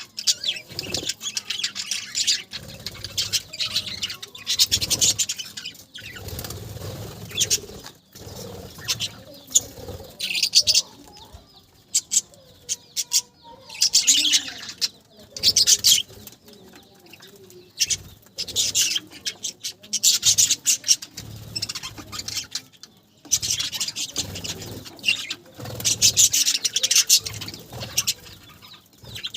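Budgerigars chirping and chattering in repeated bursts, with short quiet gaps between them.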